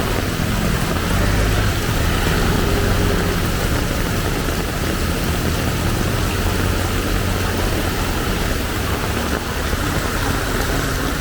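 Heavy rain pouring steadily, with a motor vehicle's engine running underneath that eases off about halfway through.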